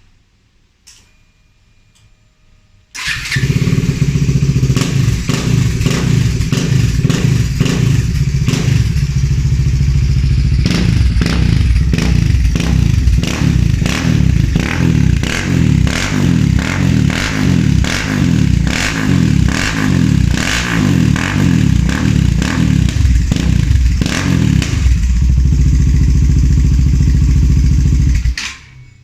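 Bajaj Dominar's single-cylinder engine, breathing through an aftermarket Akrapovic exhaust, starts about three seconds in and runs with a deep exhaust note. For much of the run the throttle is blipped over and over in short revs with sharp pops. The engine is switched off and cuts out suddenly near the end.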